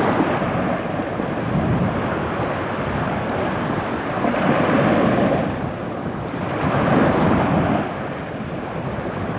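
Wind buffeting the microphone over waves washing onto the beach, a rushing noise that swells twice near the middle.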